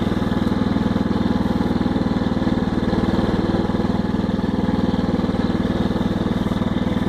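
Tractor engine idling steadily, with an even, unchanging beat.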